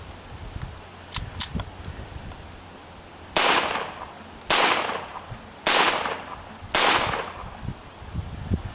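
Four sharp .22 LR rifle shots, about one a second, each with a short fading echo. Two faint clicks come just before them.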